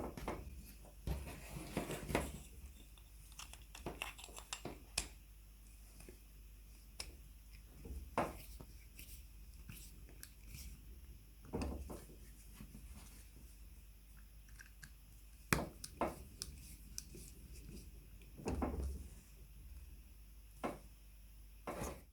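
Irregular small clicks, taps and short scraping noises from hands working on small parts, some louder knocks near 8, 15 and 16 seconds in, over a low steady hum.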